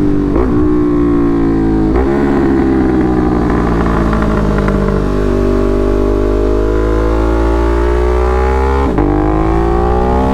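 Ducati Monster's L-twin engine on an SC Project exhaust pulling hard under way. It shifts up about half a second and two seconds in and again near the end, with a long climb in revs between.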